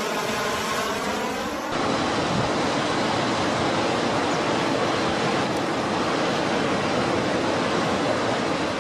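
Aircraft engine noise passing by, its rushing sound sweeping in pitch. About two seconds in, it cuts to a steady rushing noise with a faint steady hum.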